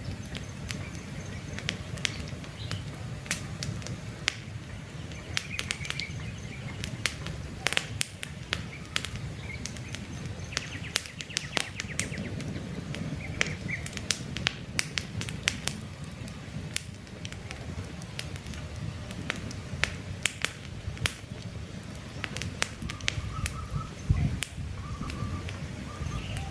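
Wood campfire crackling, with frequent sharp pops and snaps over a low steady rush of burning logs. Short bird chirps sound now and then in the background, a few lower ones near the end.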